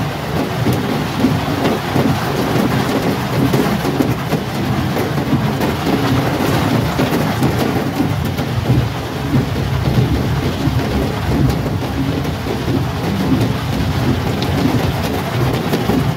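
Heavy rain beating on a car's roof and windshield, heard from inside the cabin: a loud, steady, dense patter with a low rumble.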